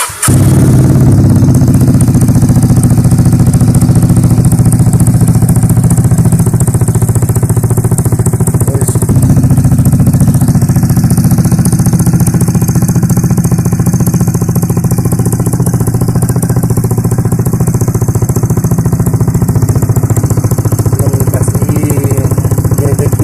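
Vespa Primavera scooter's single-cylinder engine running steadily and loud through an aftermarket Chuenk IMS exhaust with its dB killer baffle removed. It comes in suddenly at the very start, then holds an even note.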